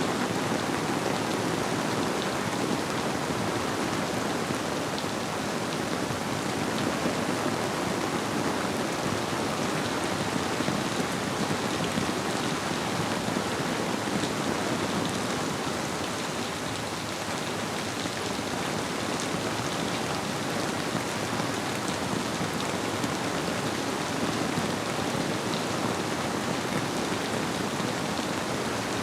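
Steady rainfall blended with a flowing river: an even, unbroken hiss with faint scattered drop ticks.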